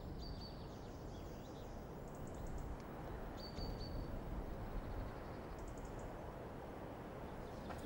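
Small birds chirping in several short spells of high calls, over a steady low rumble of background noise.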